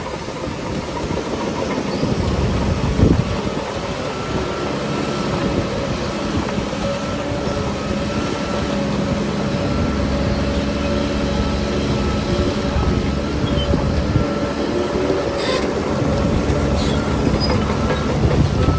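Shantui crawler bulldozer's diesel engine running steadily under load while pushing soil, with a brief louder surge about three seconds in.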